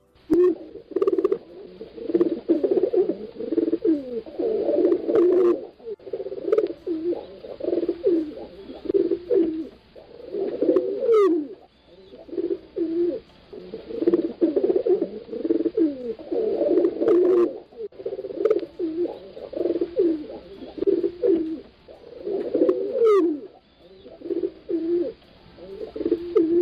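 Pigeons cooing continuously, low repeated coos from several birds overlapping.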